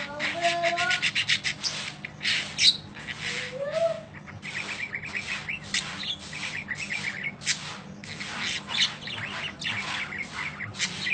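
Budgerigars chattering and warbling: a continuous run of rapid, scratchy chirps and squawks.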